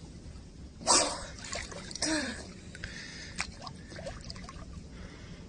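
Sea water splashing and trickling close to the microphone, with a louder splash about a second in and a smaller one near two seconds.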